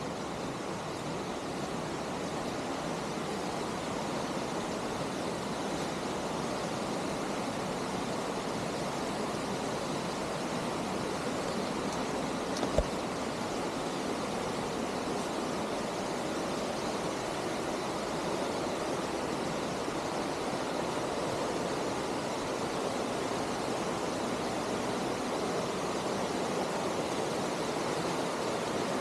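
Clear mountain stream rushing down a natural rock waterslide, a steady even rush of water. A single sharp click about thirteen seconds in.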